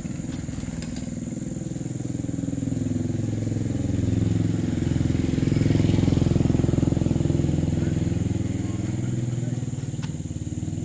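A small engine running steadily; it grows louder toward the middle and eases off again, then cuts off suddenly at the end.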